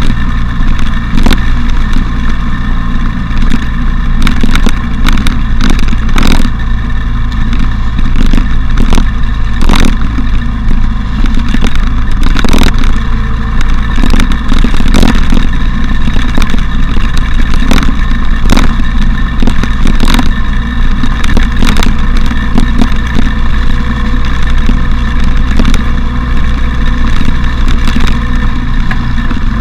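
Motorcycle running steadily at speed during a ride, under heavy low wind rumble, with frequent sharp clicks and knocks throughout.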